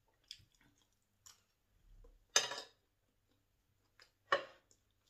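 Quiet mouth sounds of someone chewing a spoonful of fried rice: faint clicks early on, then two short, louder mouth noises about two and a half and four and a half seconds in.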